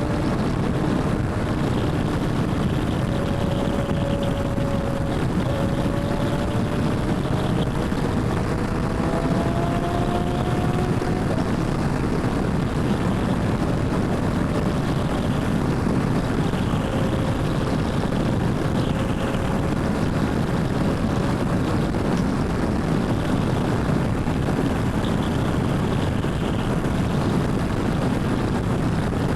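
Royal Enfield Himalayan 450's single-cylinder engine running at riding speed under a steady rush of wind noise on the microphone, with a faint engine note climbing gently in pitch a few seconds in.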